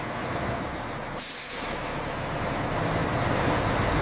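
Heavy truck running, a low rumble with a hiss over it, growing gradually louder.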